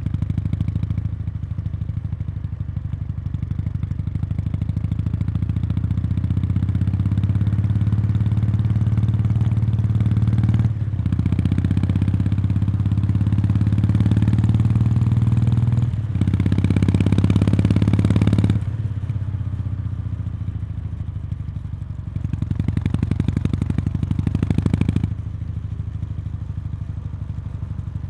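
Kawasaki Meguro K3's air-cooled parallel-twin exhaust on its stock muffler, heard up close at the outlet. The engine pulls steadily and grows louder, with two brief breaks in the middle like gear changes. About two-thirds through it drops off, swells once more briefly and eases back.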